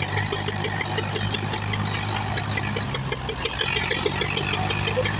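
Tractor diesel engine running steadily, its note shifting slightly about three seconds in.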